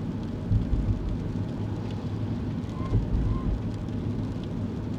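Kei car driving on wet roads, heard from inside the cabin: a steady low rumble of engine and road noise with a hiss of tyres on the wet surface. A pair of short faint chirps comes about three seconds in.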